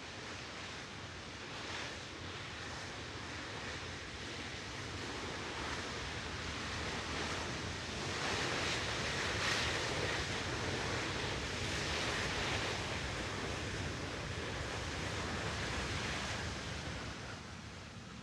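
Jet airliner engines at high thrust with the thrust reversers deployed on the landing roll: a broad rushing roar that builds to its loudest around the middle and fades away near the end.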